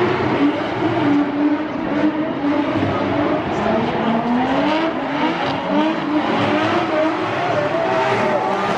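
Drift cars' engines revving hard on track, the pitch rising and falling over and over as the throttle is worked, over a steady rushing haze of noise.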